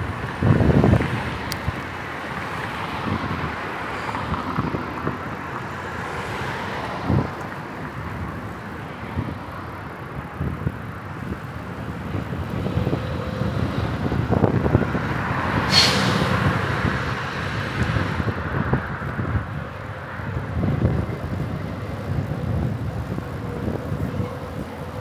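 Outdoor road noise heard from a moving bicycle, with passing traffic. There is a brief sharp hiss about two-thirds of the way through.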